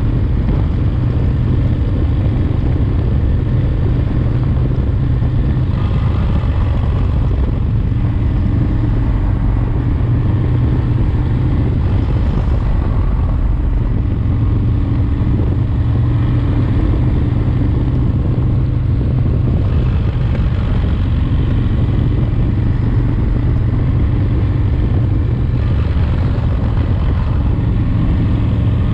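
S&S 107 cubic-inch V-twin engine in a 1985 Harley-Davidson FXRT running steadily under way, a freshly rebuilt engine in its first break-in miles.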